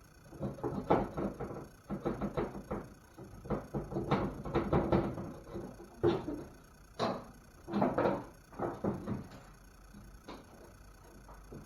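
Workshop clatter of tools and car body parts being handled during a teardown: a quick, uneven run of knocks and clanks, some ringing briefly, thinning out in the last few seconds.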